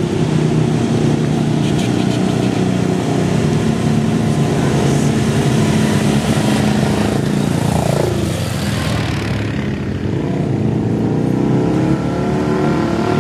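Dirt bike engines passing close by and revving. One drops in pitch as it goes past about eight seconds in, the sound eases briefly, then more engines come through.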